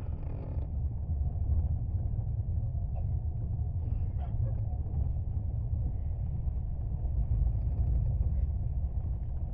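Steady low rumble of a passenger train coach in motion.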